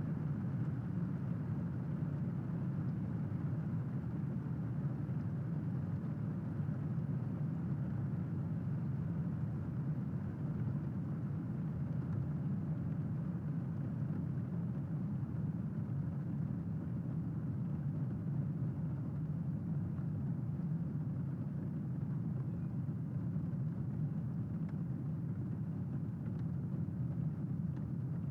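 Steady rain, a dull even rush heavy in the low end, with no thunderclap.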